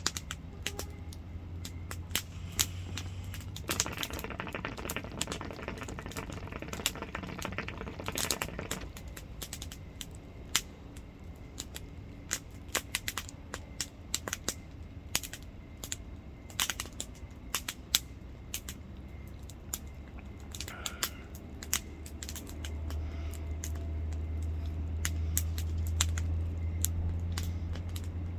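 Campfire crackling, wood popping and snapping in irregular sharp cracks over a low rumble.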